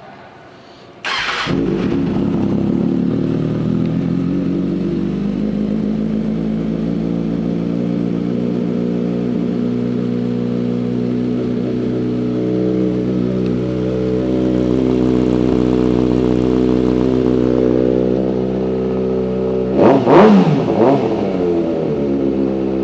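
Kawasaki Ninja ZX-6R 636's inline four-cylinder engine with an aftermarket exhaust, started about a second in and idling steadily. Near the end the throttle is blipped in a few quick revs before it settles back to idle.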